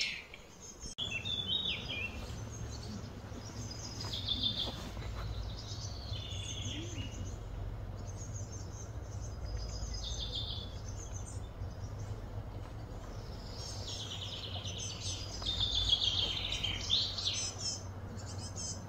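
Birds chirping in short, rapidly repeated trilling phrases that recur every few seconds and are loudest near the end, over a steady low outdoor rumble.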